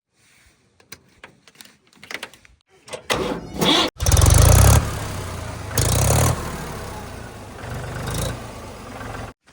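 A vehicle engine being cranked and catching, then revved up twice while running before it cuts off suddenly near the end.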